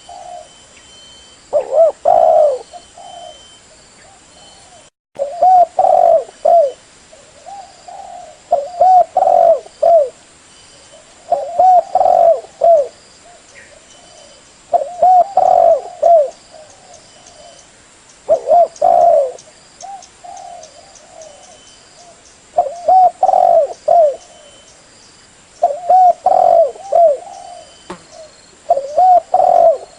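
Spotted dove (terkukur) cooing: a phrase of several short, low hooting notes repeated about every three seconds.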